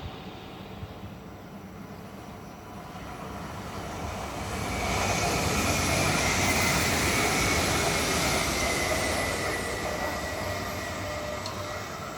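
A train passing, growing louder to its loudest about five to nine seconds in, then fading. A high whine runs through the loudest part and falls slightly in pitch.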